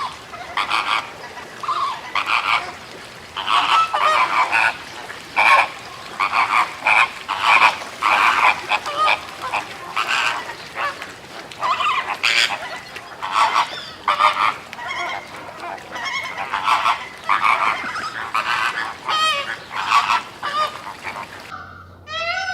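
A flock of flamingos honking, many short nasal calls overlapping several times a second.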